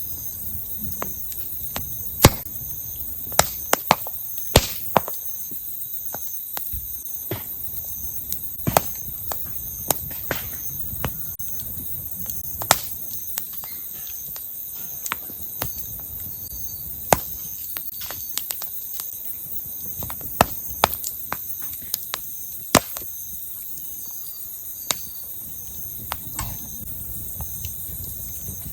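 Firewood crackling and popping in a campfire: sharp, irregular snaps every second or two, some in quick pairs, over a steady high insect chirring.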